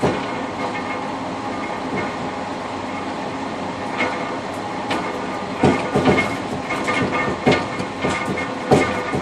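Passenger train running on the rails, heard from inside the rear cab of the last car: a steady rumble, with the wheels clicking over rail joints in quick runs in the second half.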